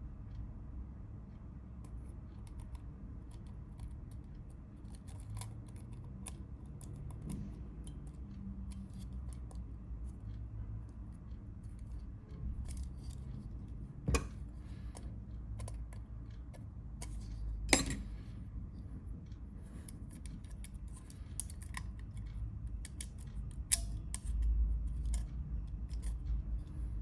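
Scattered small, sharp clicks and ticks of hand work, with two louder clicks about halfway and two-thirds of the way through, over a low steady hum.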